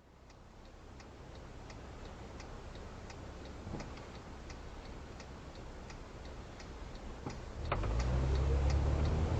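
A car's turn-signal indicator ticking steadily about twice a second over low engine and road rumble heard from inside the car. Near the end there is a sharp click, and the rumble grows louder.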